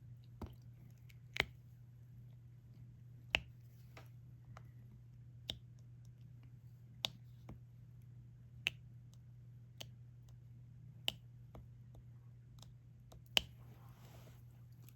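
Diamond-painting drill pen tapping resin drills onto the sticky canvas: light, sharp clicks about every second and a half, over a faint steady low hum, with a brief soft rustle near the end.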